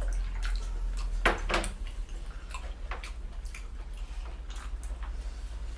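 Dishes and eating utensils clinking and tapping at a meal table: scattered light clicks, with a louder pair of clacks a little over a second in, over a steady low hum.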